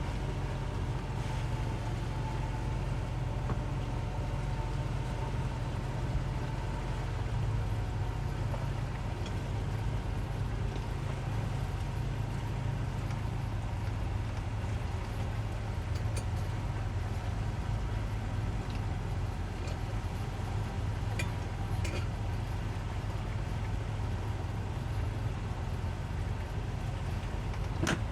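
Twin 200 hp Suzuki outboard motors on a towboat running steadily with an even low hum, with a few faint clicks over it.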